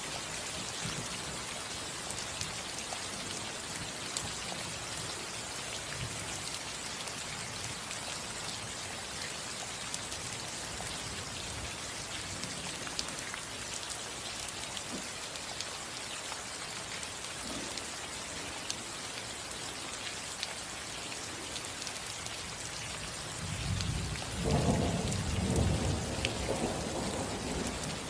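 Steady rain falling on a roof, an even patter of drops. About 24 seconds in, a low rumble of thunder swells up and lasts a few seconds.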